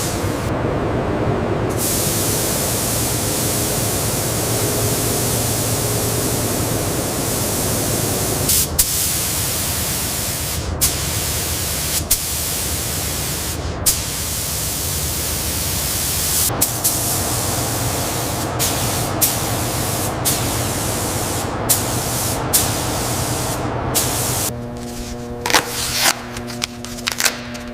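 A steady, loud hiss of a high-pressure spray, broken now and then by brief cut-offs and sharp clicks. Near the end the spray stops, leaving a quieter steady hum with a few clicks.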